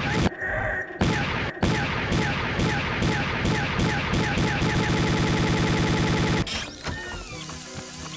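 A short snippet of cartoon audio chopped into a stutter loop that repeats faster and faster until it blurs into a steady buzz. The buzz cuts off abruptly a little past six seconds in, and quieter, warped, pitch-bent sounds follow.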